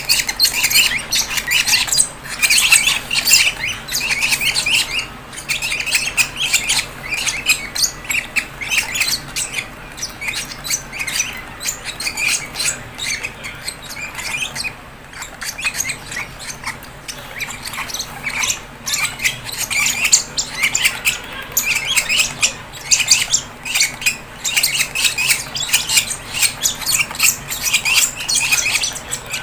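Fischer's lovebirds calling: a dense, unbroken stream of short, rapid squawks and chirps.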